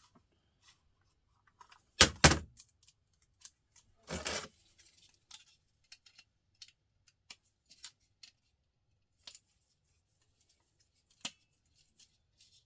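Small tools and laptop parts being handled while the laptop is taken apart: a sharp double knock about two seconds in, a short rattle about four seconds in, then scattered light clicks and ticks.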